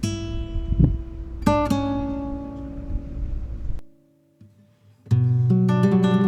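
Acoustic guitar music: a few plucked notes ring out and die away over a low rumble. After a brief near-silent pause, steady strumming starts about five seconds in.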